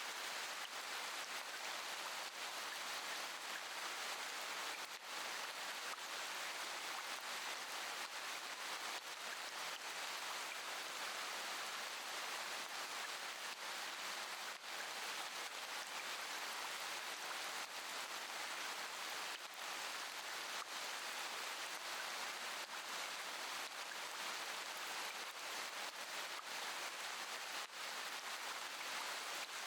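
Steady rain: an even hiss of falling drops, with no thunder.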